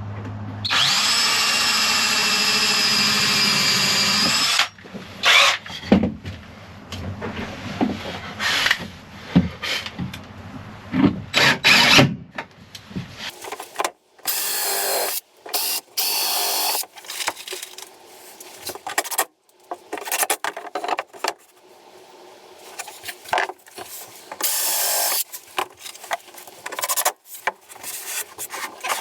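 Power drill driving screws into wood: one steady whining run of about four seconds, then scattered knocks of wood being handled, then a series of shorter drill bursts.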